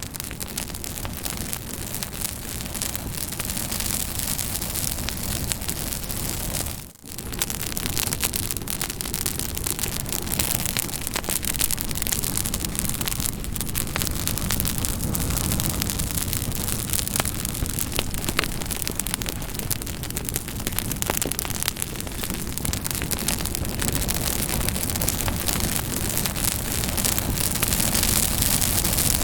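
Campfire burning with a steady hiss and many sharp crackles and pops, the sound dipping briefly about seven seconds in.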